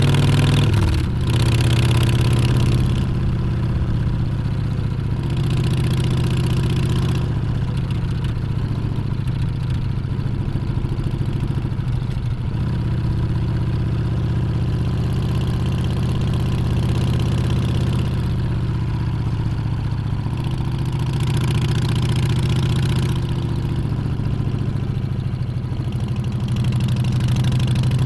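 Harley-Davidson Street Bob's Milwaukee-Eight 114 V-twin running under way, its exhaust note steady, with a brief drop in level about a second in and a few gentle rises in engine pitch later on.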